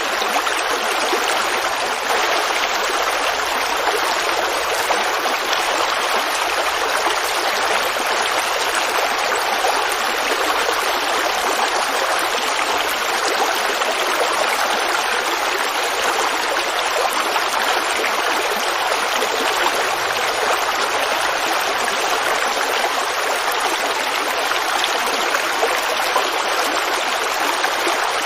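Forest creek running and babbling, a steady, even rush of flowing water.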